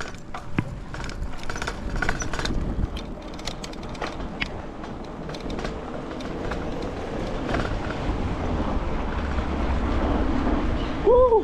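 A mountain bike being ridden along a road: a steady rumble of wind on the microphone and tyre noise, with scattered clicks and rattles, growing louder. Near the end comes a brief pitched tone that rises and falls.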